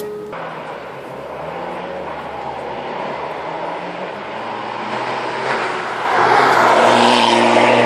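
Rally car approaching at speed, its engine at high revs, the pitch stepping with gear changes. It grows louder and is loudest near the end as it passes close by.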